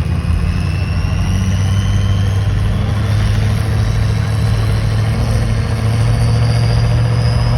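Truck engine running steadily with a low, even note, under a thin high whine that rises slowly in pitch.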